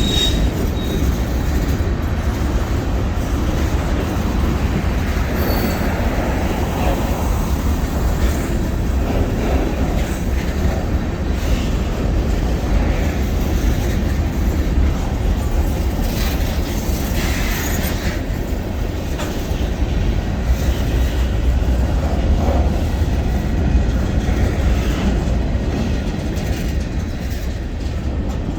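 Freight train running on the rails: a steady low rumble of moving train with the clickety-clack of wheels over the track.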